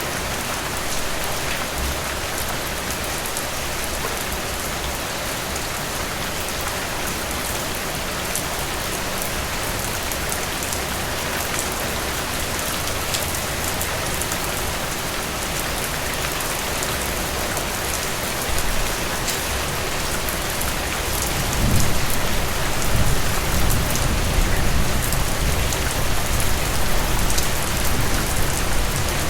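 Steady rain falling, a dense even patter of drops. About three-quarters of the way through, a low rumble comes in underneath and the sound grows louder.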